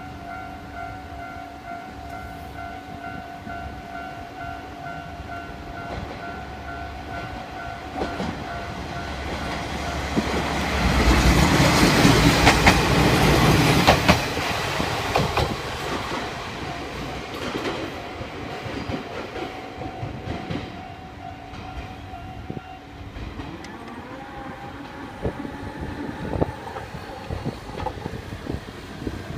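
Level-crossing alarm ringing in a steady repeated tone, then a train passes over the crossing, loudest about eleven to fourteen seconds in, with wheel clatter on the rails, and fades away over several seconds.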